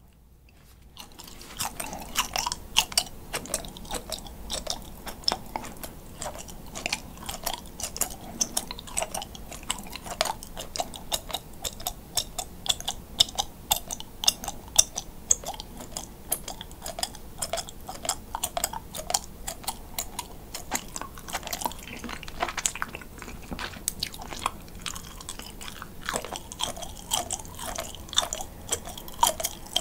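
Close-up chewing of pan-grilled grilling cheese. It starts about a second in and becomes a dense, steady run of small squeaky, crunchy clicks as the rubbery cheese rubs against the teeth.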